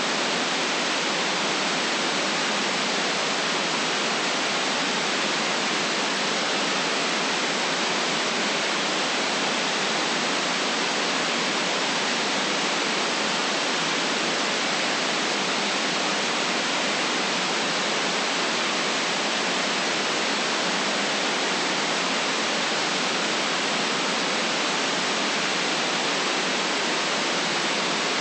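Steady electronically generated noise of the white-noise kind, an even, unchanging hiss that cuts off sharply above the treble and has little bass.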